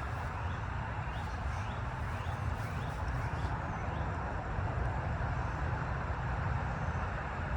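Steady outdoor background noise with a low rumble, and a few faint, short rising chirps during the first few seconds.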